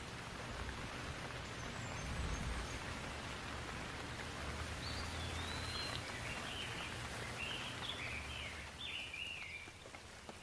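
Steady rain falling, an even hiss, with a bird calling in a run of short chirping notes from about halfway through. A low rumble swells and fades underneath at times.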